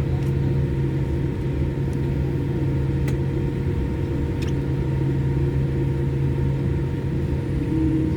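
Boeing 787 Dreamliner's jet engines running, heard from inside the passenger cabin as a steady low hum and rumble.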